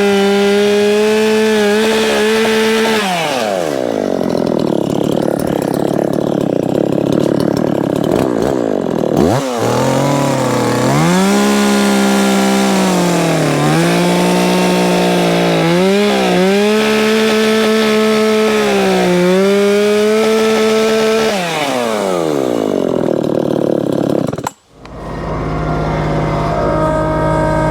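Chainsaw cutting through a log. It runs at high speed, its pitch drops as the chain bites into the wood and climbs again each time it frees up, several times over. About 25 seconds in it cuts off abruptly and a different, steadier engine hum takes over.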